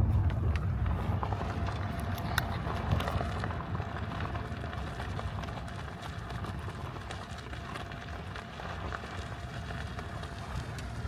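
Outdoor ambience: a steady low rumble with scattered light clicks and taps.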